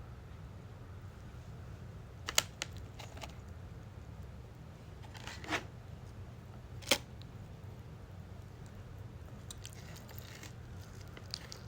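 Takeout food and its packaging being handled: a few sharp clicks and crackles, a pair about two seconds in and single ones about five and a half and seven seconds in, over a steady low hum.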